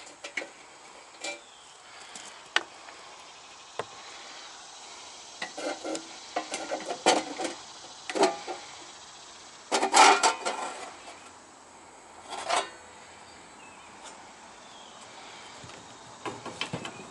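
Metal clinks, scrapes and rattles as an air-conditioner condenser's access panel is taken off and handled, with scattered single clicks between clusters of clatter. The loudest burst of rattling comes about ten seconds in.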